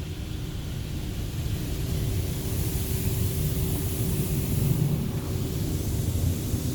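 High-pressure water jets of a touchless car wash spraying a minivan, heard from inside the cabin as a steady hiss over a low rumble. The hiss swells about two and a half seconds in and eases off near five seconds as the spray sweeps past.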